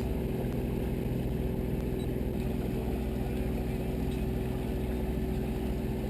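Boat engine running steadily at constant speed, a low even drone.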